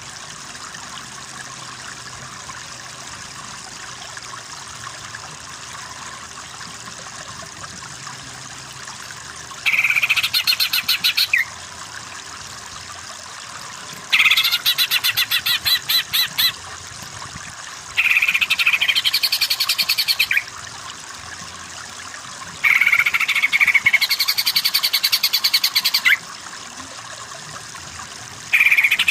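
Green leafbird (cucak ijo) singing in bursts of rapid, stuttering high-pitched notes, each burst lasting two to three and a half seconds, four times with a fifth starting near the end, over a steady background hiss.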